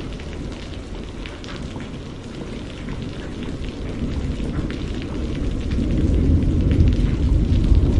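Steady rain, with a low rumble of thunder building through the second half.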